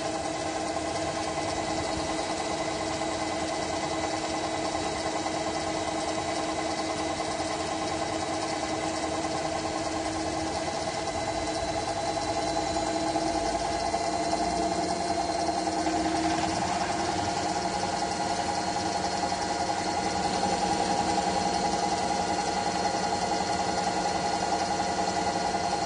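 Aqua washing machine running: a steady motor hum with several fixed tones, which climb slightly in pitch and grow a little louder from about halfway through.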